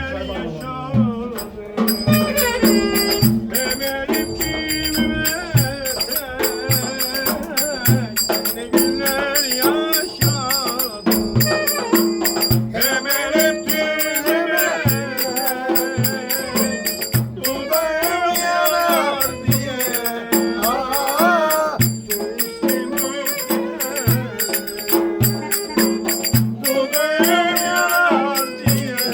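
Turkish folk dance music (oyun havası): a wavering, ornamented melody over a held low drone and a steady drum beat.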